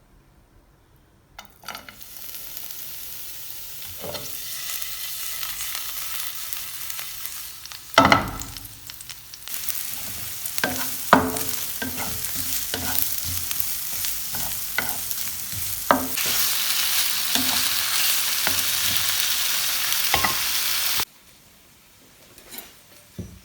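Food sizzling as it fries in a pan, with a utensil knocking and scraping against the pan as it is stirred. The sizzle gets louder for the last few seconds and stops suddenly near the end.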